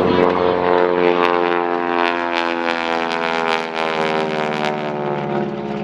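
SNJ-6 Texan's 1,340 cubic inch nine-cylinder supercharged Pratt & Whitney radial engine and propeller running loud in flight, its note falling slowly in pitch as the plane goes by.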